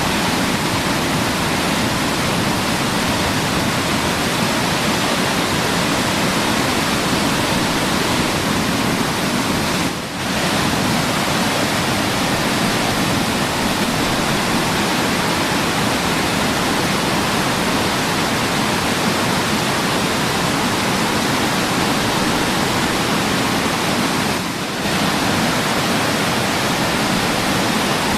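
Waterfall: water pouring and splashing in a steady full rush, briefly dipping twice, about ten seconds in and again near the end.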